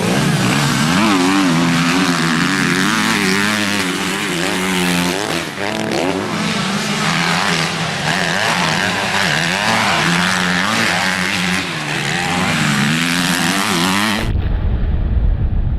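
Several motocross motorcycle engines revving up and down as the bikes ride, their pitches rising and falling and overlapping. About a second and a half before the end the engine sound cuts off suddenly into a low rumble.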